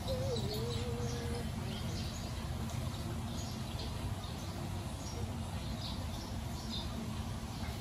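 Small birds chirping, short high calls every second or so, over a steady low background rumble.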